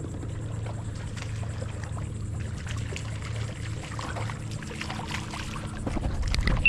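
Water splashing and trickling around a fishing kayak over a steady low hum, building near the end to a louder thump.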